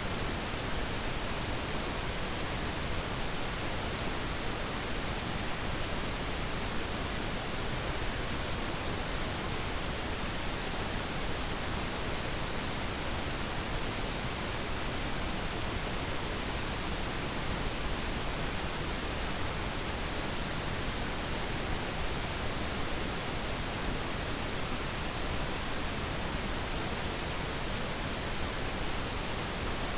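Steady pink noise, an even hiss with no changes or events.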